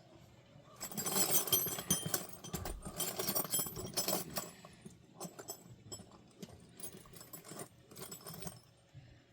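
Metal sockets and hand tools clinking and rattling as someone rummages through a toolbox. It starts about a second in, is busiest for the next few seconds, then thins to scattered clinks.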